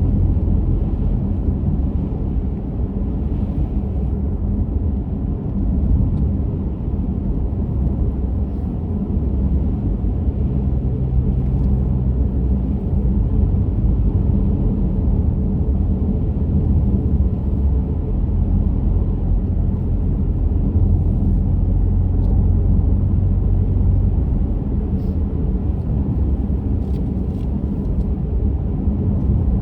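Steady low rumble of a car driving at road speed: tyre and engine noise, with a few faint ticks near the end.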